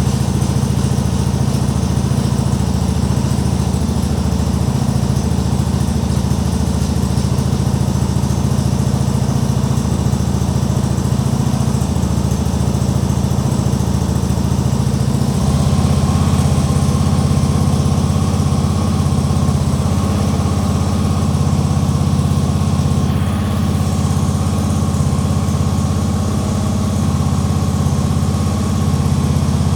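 Tractor engine running steadily. About halfway through its note changes and it gets slightly louder.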